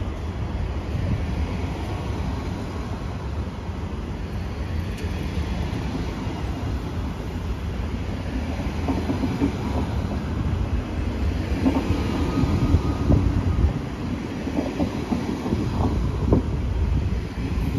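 A train passing close by: a steady low rumble, with the wheels knocking over rail joints more loudly in the second half.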